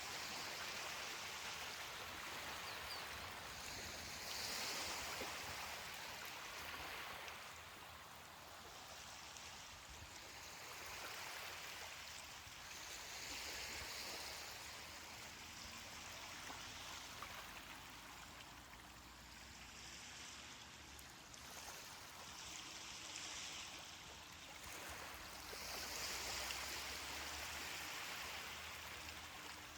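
Gentle ocean surf, waves washing onto the beach in a steady, faint hiss that swells and fades every few seconds.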